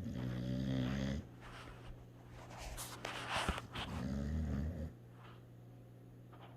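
A sleeping dog snoring: a rattling snore about a second long at the start, a breathy, snorting out-breath around three seconds in, then a shorter rattle just after.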